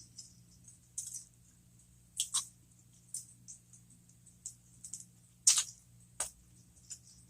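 Close-miked chewing of a stuffed jalapeño popper: irregular soft mouth clicks and smacks, the loudest about five and a half seconds in, over a faint steady hum.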